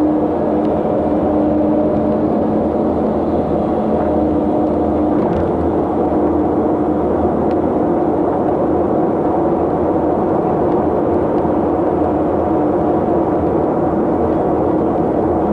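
Steady drone of a vehicle on the move, engine and road noise, with a low steady hum that fades about five seconds in.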